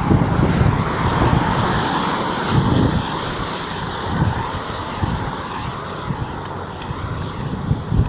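A road vehicle passing, its steady road noise strongest in the first few seconds and then fading, with wind gusting on the microphone.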